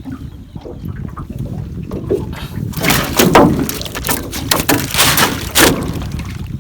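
Water splashing and sloshing in loud, irregular bursts about halfway through, over a steady low rumble of wind and waves.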